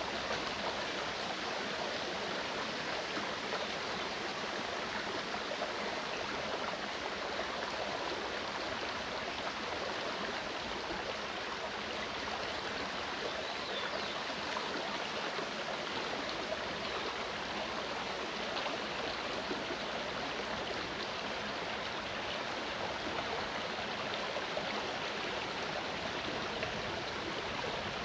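Mountain stream running steadily, an even, unbroken rush of flowing water.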